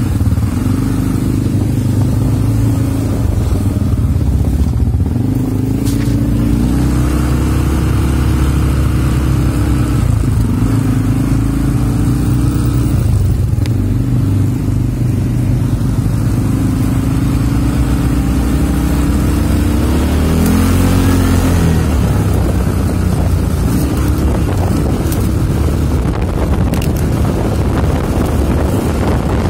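CFMoto CForce ATV engine running under load, its pitch rising and falling repeatedly as the throttle is worked, with a marked dip and climb about two-thirds of the way through.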